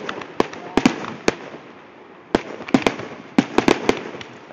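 Fireworks finale: aerial shells bursting in quick, irregular volleys of sharp bangs. A short lull comes about two seconds in, then a dense run of bangs follows.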